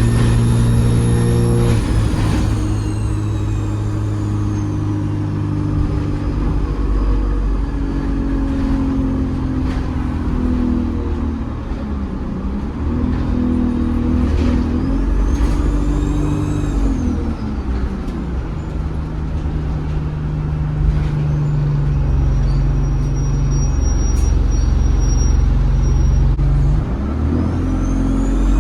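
ADL Enviro 200 bus's diesel engine pulling and easing off, with a high turbo whistle that falls away as it eases off about two seconds in, rises and falls again midway, and climbs once more near the end as the bus accelerates.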